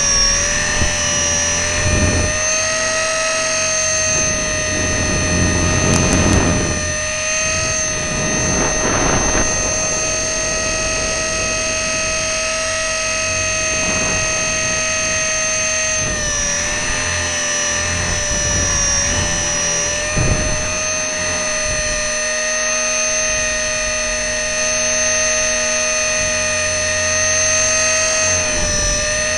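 E-flite Blade 400 electric RC helicopter heard from its onboard camera: a steady high whine from the motor, gears and rotor at an almost constant pitch, with irregular low gusts of wind and rotor wash buffeting the microphone.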